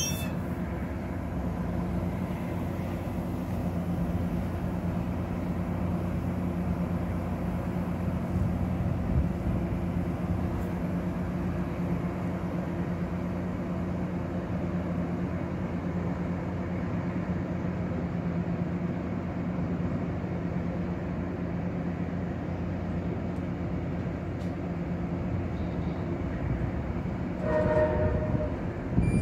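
MARC commuter train's diesel locomotive running steadily, a constant engine rumble with a held mechanical hum. A short horn-like blast of several tones sounds near the end.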